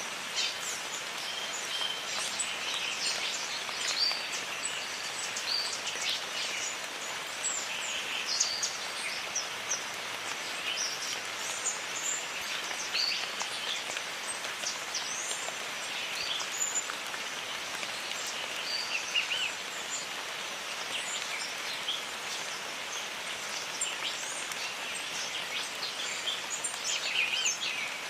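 Steady rain falling in a jungle, a continuous hiss, with many short bird chirps and quick rising and falling calls dotted throughout.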